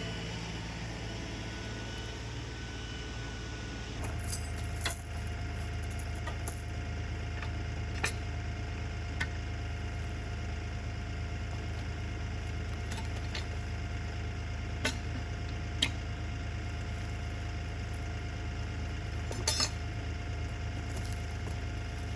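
Compact diesel tractor engine running steadily, its note deepening about four seconds in, with sharp clinks and knocks every few seconds.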